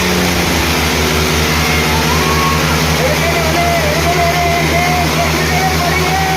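Tractor diesel engine running steadily with an even low throb. From about halfway a wavering, melodic tone, music or singing, rides over it.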